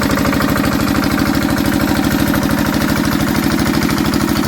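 Old Enfield SV1 stationary diesel engine running steadily with an even, rapid knocking beat, just after a cold hand-crank start following a week of sitting.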